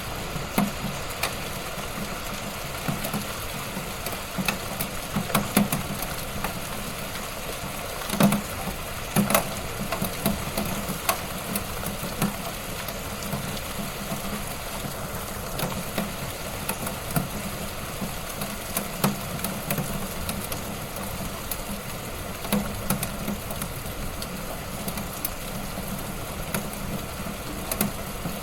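Wood fire crackling in a fireplace: a steady hiss with irregular sharp pops and snaps, the loudest about eight and nine seconds in.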